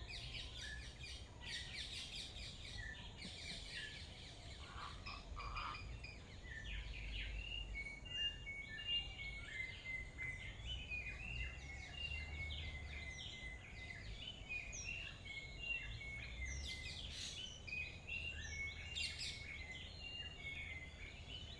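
Several birds calling and chirping in overlapping bursts, with runs of short repeated notes, over a steady low rumble.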